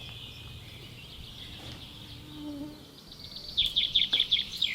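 A bird chirping: a fast run of loud, high chirps, about eight a second, starting about three and a half seconds in, over a faint steady high-pitched hum.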